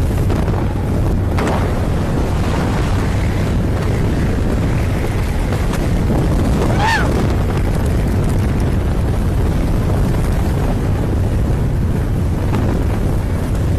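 Loud steady rumble with wind buffeting the microphone, from the top of a moving train's locomotive. A brief whistle-like tone rises and falls about seven seconds in.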